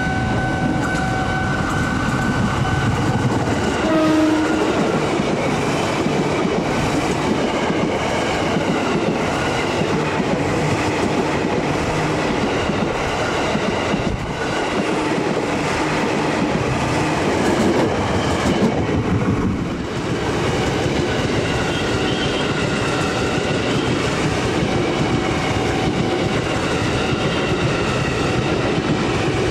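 KRL Commuter Line electric commuter trains passing close by. A horn sounds for the first few seconds, with a short second blast about four seconds in. After that comes the continuous rumble and clatter of the cars' wheels over the rails.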